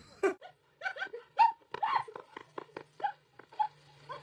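A dog giving a quick run of short, pitched yips and whines, about three a second.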